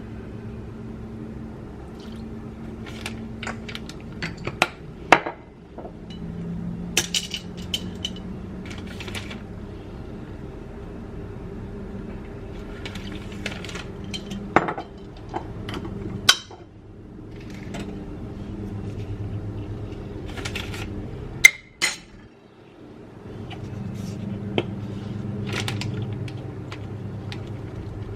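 Kitchen dishes and utensils clinking and knocking now and then during food preparation, with sharper knocks about five, sixteen and twenty-one seconds in, over a steady low hum.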